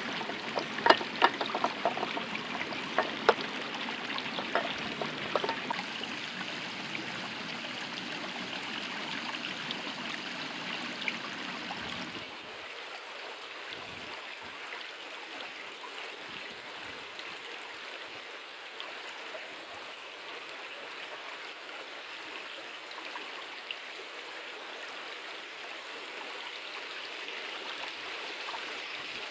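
River water flowing steadily, with a string of sharp clicks and knocks during the first few seconds. About twelve seconds in, the water sound turns thinner as its low rumble drops away.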